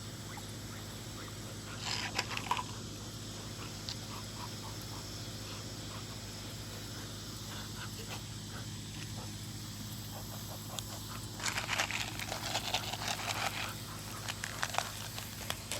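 Ducks and geese calling close by in short bursts, once about two seconds in and then thickly over the last few seconds, over a steady low hum.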